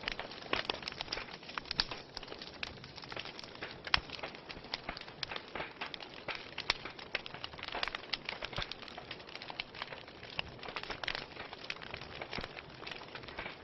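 Wood fire burning in a fireplace, crackling and popping constantly over a soft hiss, with one sharper pop about four seconds in.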